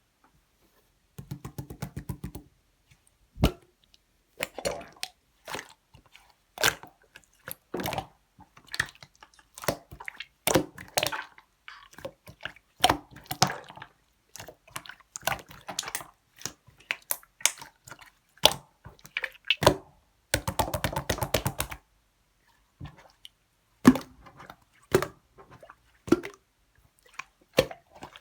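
Pink clear slime with pearl beads being squished and pressed by hand: a stream of irregular sticky clicks, pops and squishes, with two short runs of rapid crackling about a second in and about twenty seconds in.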